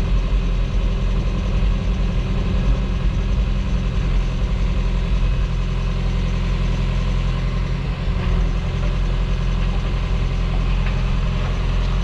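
Diesel engine of a tracked earthmoving machine running steadily with a deep, even drone.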